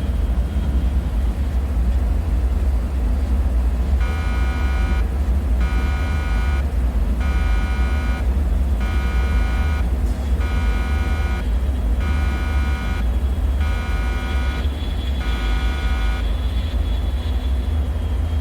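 Dark bunker ambience: a deep, steady rumbling drone with a buzzing alarm tone that pulses on and off about eight times, roughly once every second and a half, starting about four seconds in and stopping a couple of seconds before the end.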